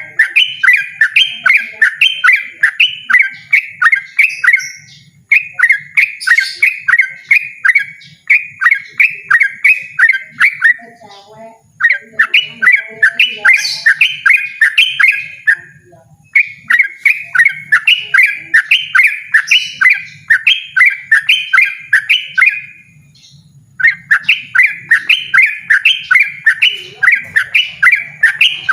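Yellow-vented bulbul (trucukan) singing loudly in fast 'ropel' runs: the same short note repeated about three to four times a second, in bouts of several seconds with brief breaks between them.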